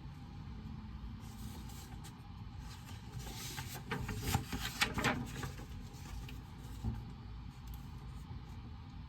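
Steady low hum of a reading room, with a short burst of rustling and a few clicks at a study desk about four to five seconds in, and one small click near the end.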